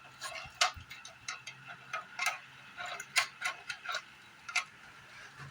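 Irregular light clicks and taps, a few a second, of small hard parts and tools being handled while an air-conditioning unit is taken apart.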